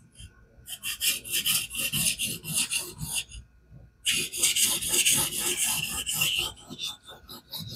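Knife edge being worked back and forth on a King whetstone in a fixed-angle sharpening guide, sharpening the second side of the blade: a quick run of scraping strokes, a short pause about three seconds in, a second run, then lighter strokes near the end.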